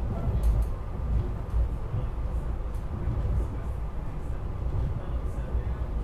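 SEPTA Regional Rail electric train running along the track, heard from inside the passenger car as a steady low rumble with a few faint ticks.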